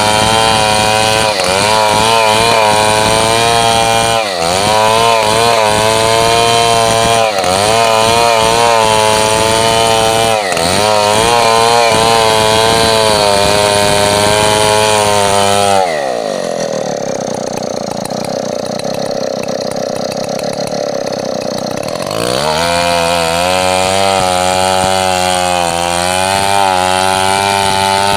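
Large Stihl 070-type two-stroke chainsaw running at high revs under load, cutting coconut wood, with brief dips in engine speed every few seconds. A little past the middle it drops to a lower, quieter pitch for about six seconds, then revs back up and carries on cutting.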